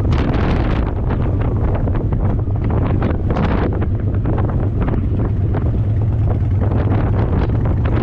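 Wind buffeting the microphone of a chest-mounted action camera on a moving motorcycle, in irregular gusts over a steady low engine drone.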